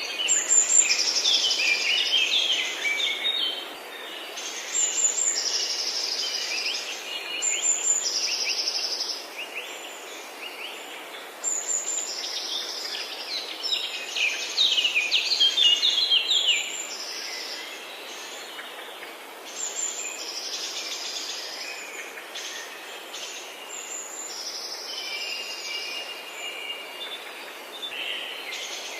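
Several forest birds singing, with overlapping phrases of chirps and quick trills, busiest in the first half, over a steady background hiss.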